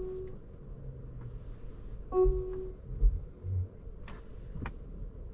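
Lexus NX350h's electronic warning chime sounding once, a short clear tone, followed about two seconds later by two sharp clicks half a second apart.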